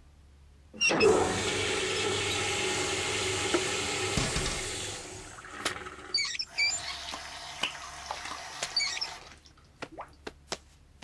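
A toilet flushing: a loud rush of water that starts about a second in and lasts about four seconds, then a thinner run of water for about three more. A few soft clicks follow near the end.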